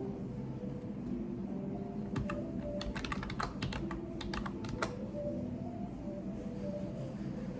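Typing on a computer keyboard: a quick run of keystrokes starting about two seconds in and lasting about three seconds, over a steady low background hum.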